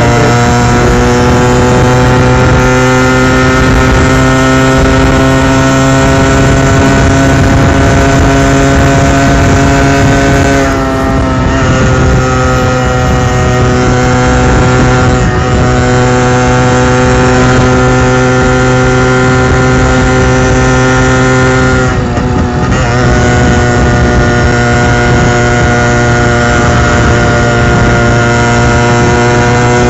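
1988 Yamaha RX100's 98 cc single-cylinder two-stroke engine run hard toward 100 km/h, a steady engine note whose pitch climbs slowly. The revs dip briefly and climb again about 11 and 22 seconds in.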